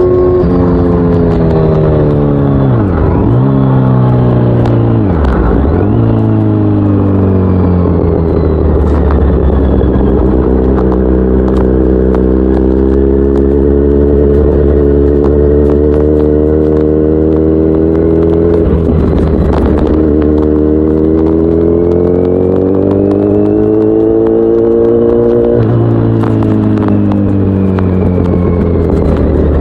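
Kawasaki Z900's inline-four engine running through an Akrapovic full exhaust system while the motorcycle is ridden. The engine note rises and falls with the throttle. Its pitch dips sharply and briefly about 3 and 5 seconds in and again near 19 seconds, and steps down about 26 seconds in.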